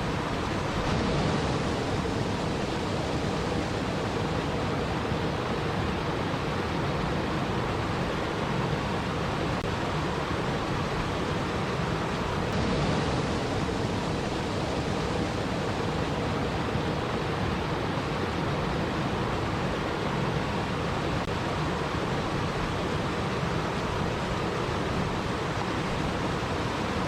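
Steady, even rushing water noise, with a brief slight swell about a second in and again near the middle.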